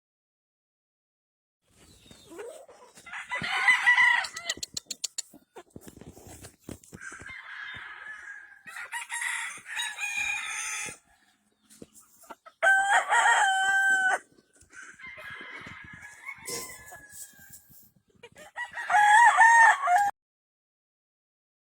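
Gamefowl roosters crowing, about four loud crows one after another, with softer clucking and calling between them.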